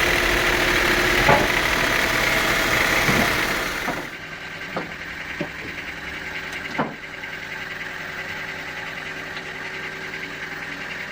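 Sawmill machinery running loudly, dropping to a quieter steady hum about four seconds in, with a few knocks after the drop.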